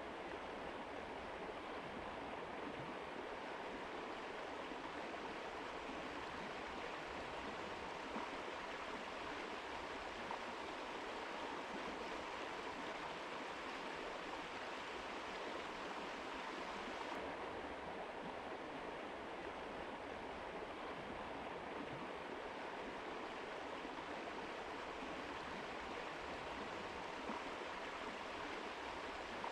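Mountain river flowing: a steady rush of water, its hiss turning a little duller about two-thirds of the way through.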